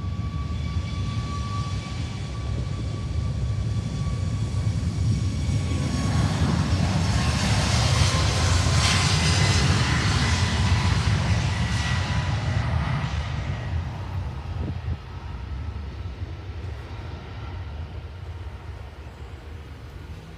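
Airliner passing, its engines' whine and rumble building to a peak about eight to ten seconds in, the whine dropping slightly in pitch as it goes by, then fading.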